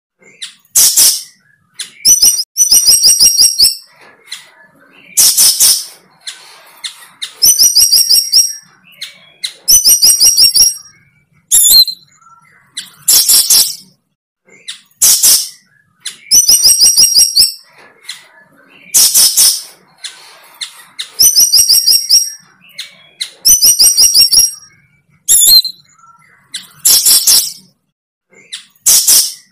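A bird calling loudly and repeatedly, every second or two. Harsh single blasts alternate with quick runs of short, high notes.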